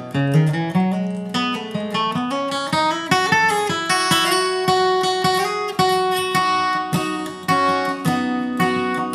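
Acoustic guitar playing a slow bluegrass instrumental break: picked single-note runs, moving from bass notes up into higher melody notes.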